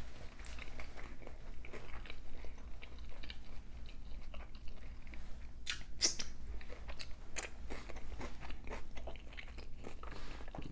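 Close-miked chewing of a birria taco: wet smacking mouth sounds with small crunches, and a few sharper smacks about six seconds in.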